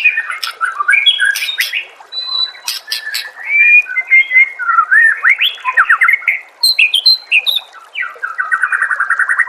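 White-rumped shama singing a varied run of loud whistled phrases, with rapid up- and down-sweeping notes and sharp chips, ending in a fast trill of repeated notes about a second and a half long.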